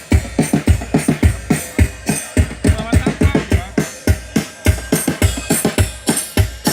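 A live band playing over a PA during a sound check: a drum kit keeps a steady beat of bass-drum thumps, a few a second, with cymbals on top.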